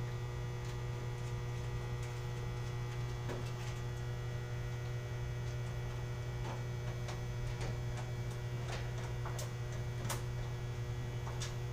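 Steady low electrical mains hum, with a scattering of short light clicks and taps that come more often in the second half.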